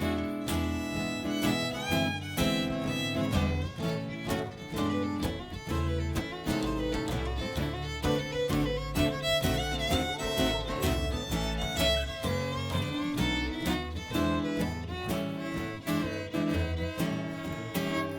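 Instrumental break of a live country-bluegrass song: a fiddle plays the lead over strummed guitar, bass and a steady beat.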